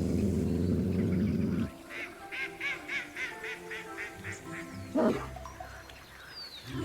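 Film soundtrack: a loud low rumble that cuts off suddenly about two seconds in, then soft music under a quick run of about ten short, high, bird-like calls.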